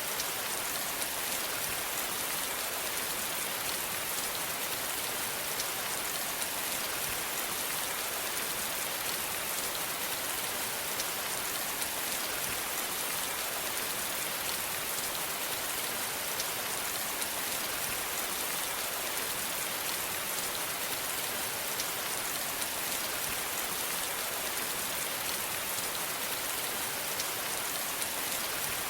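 Steady rain, an even hiss of falling rain with the patter of many small drops hitting a surface.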